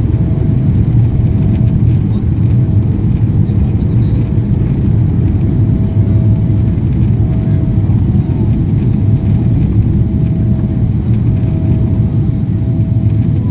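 Boeing 777-300ER cabin noise during takeoff: a loud, steady low rumble of the GE90 engines and airflow, with a faint steady tone above it.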